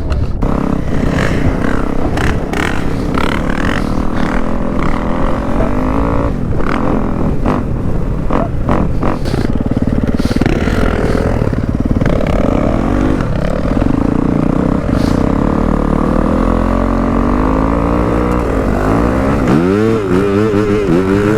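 Dirt bike engine running under way, its pitch rising and falling in quick revs near the end, with scattered knocks and clatter in the first half.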